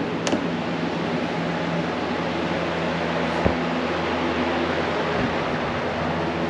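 Electric fan running steadily: a constant whoosh of moving air with a low hum, and a couple of faint knocks.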